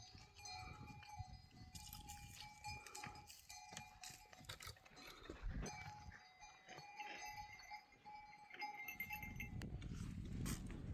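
Bells hung on a flock of goats ringing faintly, with scattered soft knocks.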